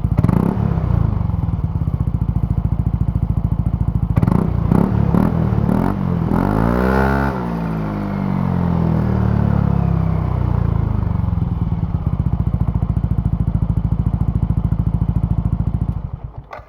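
Yamaha NMAX125 scooter's single-cylinder four-stroke engine idling through a BEAMS CORSA-EVO II heat-titanium aftermarket exhaust, with short throttle blips about four seconds in and one rev that rises and falls back about seven seconds in. The engine is switched off just before the end.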